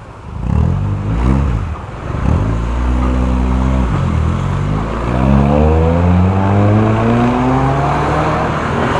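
Motor scooter engine accelerating, its pitch rising three times with short drops between, the last a long, steady climb.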